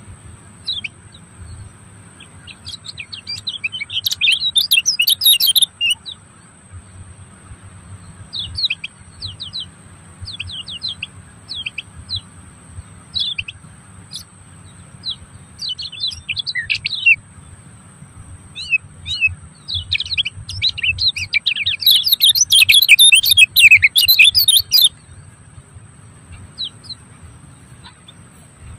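Small birds chirping in quick runs of short high notes, with two busy flurries, one a few seconds in and a louder one past the middle.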